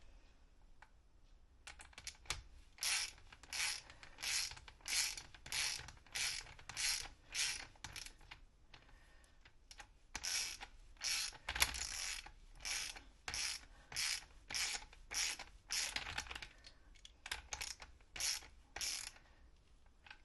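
Ratchet wrench being swung back and forth to run a fastener down on a motorcycle fork, each return stroke a short burst of pawl clicks, about two strokes a second after a short pause near the start.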